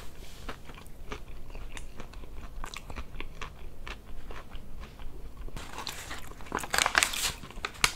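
Crunchy chewing of fried chicken, a run of crisp clicks and crunches. Near the end comes a louder spell of crinkling from a foil-lined paper sandwich bag being handled.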